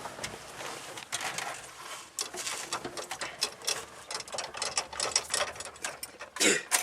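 Irregular metallic clicking and rattling of hand work on a Cummins 12-valve diesel's fuel system while air is bled from the fuel line, with a slightly louder knock near the end.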